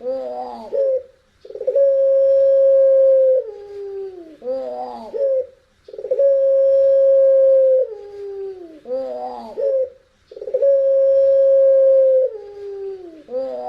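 Puter pelung, a long-cooing variety of Barbary dove, calling over and over: each call is a long steady coo of about two seconds that slides down in pitch and ends in a short warbling flourish, with a brief pause before the next, about three calls in all.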